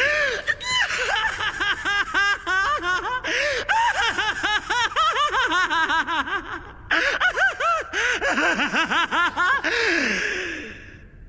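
High-pitched laughter: a fast run of laugh-like calls, each rising and falling in pitch, with a short break about two-thirds through and a falling glide at the end.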